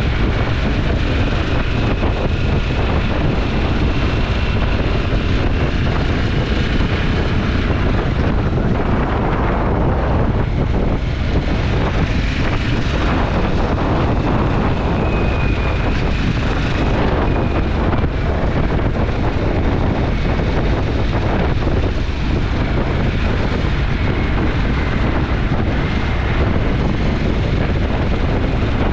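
Twin-cylinder motorcycle engine running at a steady road speed, with heavy wind rush on the microphone.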